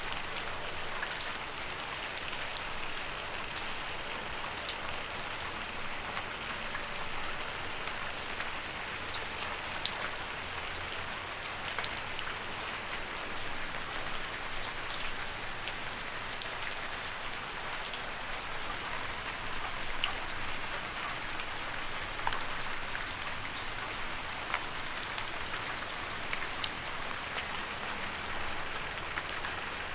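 Steady rain falling, a constant hiss with many close, sharp individual drop ticks scattered through it.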